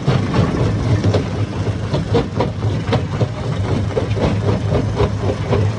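Hammer stone crusher running: a steady low machine hum with a constant irregular clatter of rocks being struck and broken, several knocks a second.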